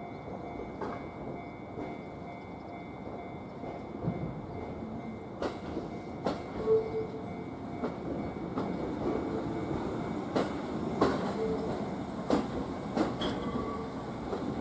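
An electric train rolling slowly over the junction's turnouts. A steady rumble is there throughout. From about five seconds in, the wheels clack sharply and irregularly over the switch and rail joints.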